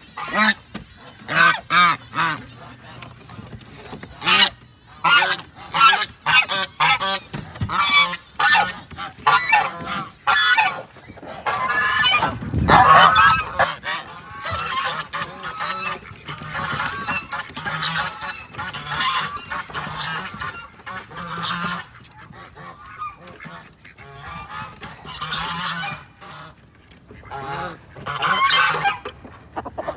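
A group of geese honking: loud, repeated calls that overlap and come in quick runs, with a louder, longer call about twelve seconds in.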